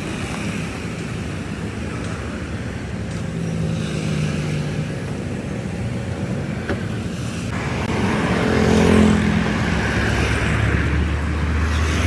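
Road traffic going by: engines running steadily, then a vehicle grows louder and passes close about eight seconds in.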